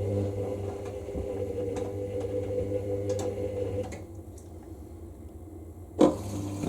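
Hoover SIX Inter@ct Whisper 1600 washing machine early in its wash cycle: the drum motor whines steadily over a low hum as it turns the drum, then stops about four seconds in. A sudden loud noise comes near the end.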